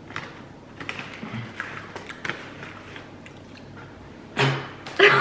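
A candy bag rustling with small crackles and clicks as sweets are taken out and chewed. Near the end comes a short, loud burst of voice.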